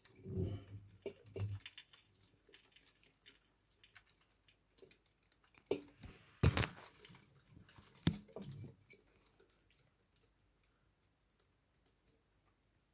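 A cat and mice scuffling: scattered light taps and scratches, with two sharper knocks about six and eight seconds in.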